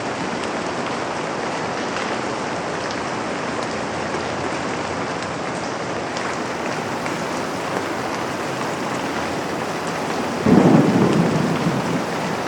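Steady rain falling on a window. A short, low rumble of thunder breaks in about ten seconds in and fades away.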